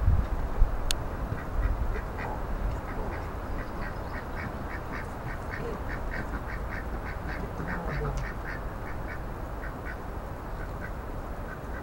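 A bird calling over and over in a long series of short, high notes, about two to three a second. Low rumble and knocks at the start, like wind or handling on the microphone.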